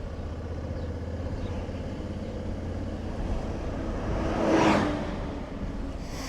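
Motorcycle engine running with a steady low rumble. About four and a half seconds in, a vehicle passes close by, its noise rising and falling over about a second.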